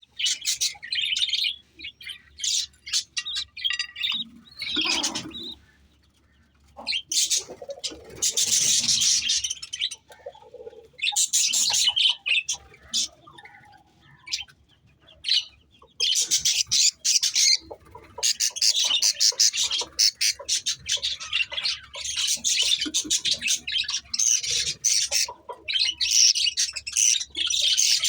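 Budgies chirping and chattering in rapid high-pitched bursts of a second or few, with short pauses between. There is a lower-pitched sound about five seconds in.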